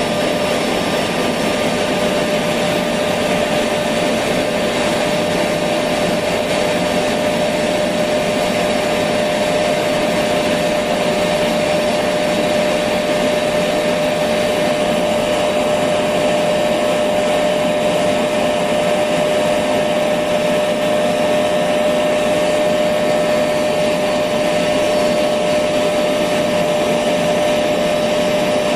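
Electric vacuum cleaner running steadily, a constant motor hum and rush of air with a high whine over it, played as white noise to soothe a baby to sleep.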